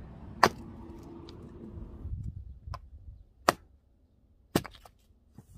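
Hatchet splitting short rounds of fresh oak for firewood: three sharp chopping blows with two lighter knocks between them.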